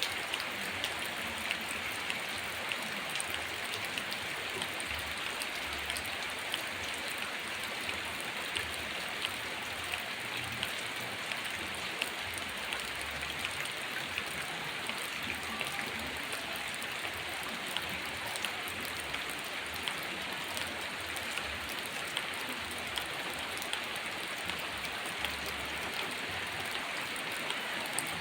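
Heavy rain falling steadily, with many separate drops ticking sharply on a surface.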